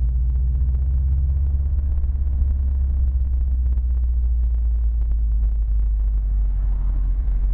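Subaru WRX sedan's flat-four engine running steadily with a low, even rumble and no change in pitch.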